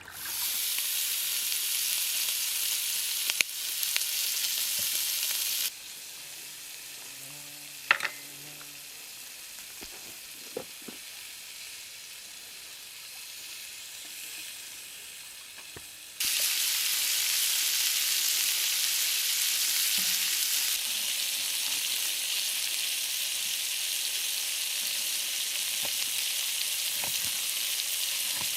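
Food sizzling in a hot pan. The sizzle cuts out abruptly about six seconds in, leaving a quieter stretch with a few sharp knocks, and comes back abruptly about sixteen seconds in.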